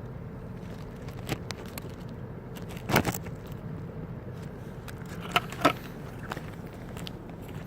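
A few sharp clicks and rattles, the loudest about three seconds in and two close together past the middle, over a steady low hum.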